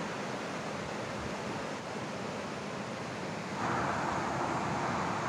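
Steady rush of flowing river water, getting louder a little over halfway through.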